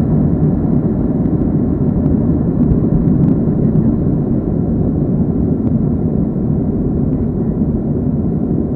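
Steady cabin rumble inside a Boeing 737-300 airliner: its CFM56-3 turbofan engines and the airflow over the fuselage give an even, low noise that does not change.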